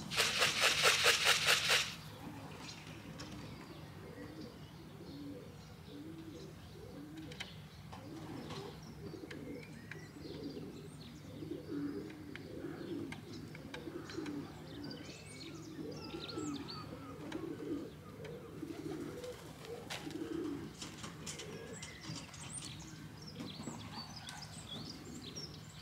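Pigeons cooing steadily, with small birds chirping higher up. The cooing opens with a loud, rapid rattling burst of about two seconds.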